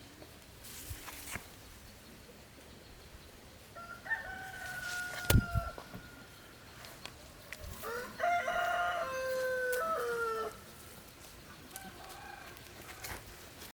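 A rooster crowing twice: a shorter crow about four seconds in and a longer one about eight seconds in. A sharp knock falls during the first crow.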